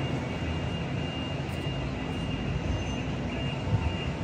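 A train at the station: a steady low rumble with a thin, high, steady whine over it that starts at the beginning.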